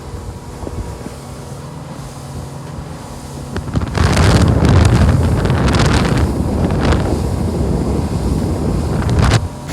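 Boat motor running steadily under way. About four seconds in, a loud rush of wind on the microphone and water noise swamps it until near the end.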